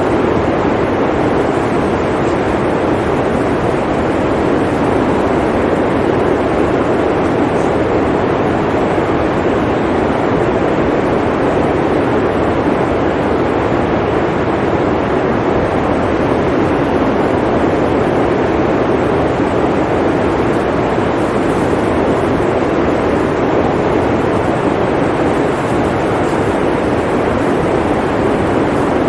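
Blizzard wind blowing as a steady, unbroken low rushing noise.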